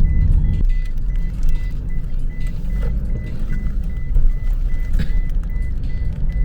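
Motor vehicle running with a heavy low rumble, and a short high beep repeating steadily about three times a second.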